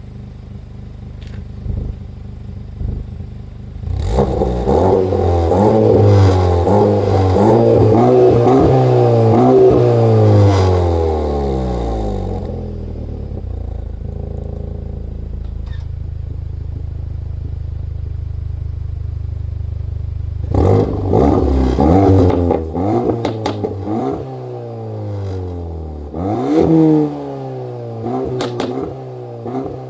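Cupra Formentor's 2.0 TSI turbocharged four-cylinder engine running through a custom stainless-steel exhaust. It idles, is revved up and down for several seconds, settles back to a steady idle, then gets a series of short throttle blips with some crackles near the end.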